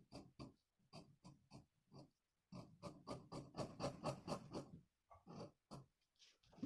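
Scissors snipping through double-folded buckram in a run of short, faint cuts, about three to four a second, coming thickest in the middle and thinning out near the end.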